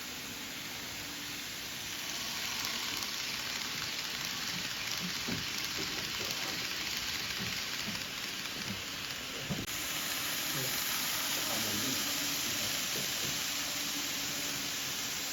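A steady hiss that brightens about two seconds in and again near ten seconds, with a few faint low knocks under it.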